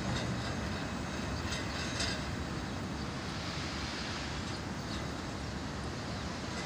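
Intermodal freight train cars rolling past: a steady rumble of steel wheels on the rails, with a few faint clicks.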